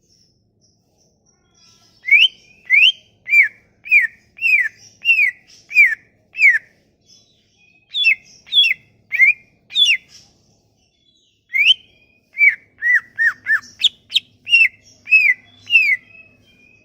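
A songbird singing loud, clear whistled notes, each a quick up- or down-slurred whistle repeated about twice a second, in three phrases with short pauses between them.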